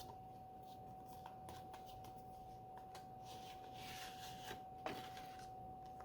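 Faint handling noises: scattered light clicks and a brief rustle, with a sharper knock near the five-second mark, over a steady faint high hum.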